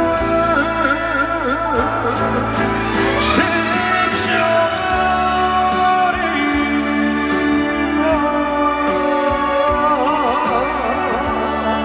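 Live trot song played by a band through a stage sound system, with a wavering lead melody line over sustained accompaniment.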